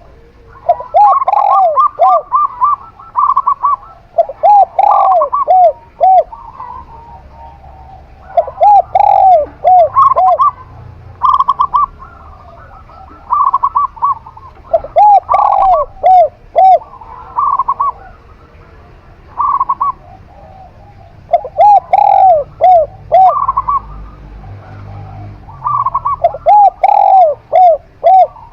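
A zebra dove and a spotted dove cooing back and forth, each bird repeating its phrase every few seconds. Some phrases are a quick run of higher notes, others a series of lower, rounded coos, and the two often overlap.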